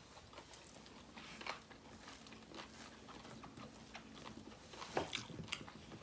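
Quiet chewing and mouth sounds of people eating, with scattered soft clicks and a couple of sharper smacks about five seconds in.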